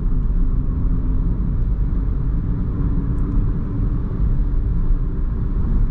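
Steady road and drivetrain rumble of a Mahindra XUV300 cruising at about 80 km/h on a highway.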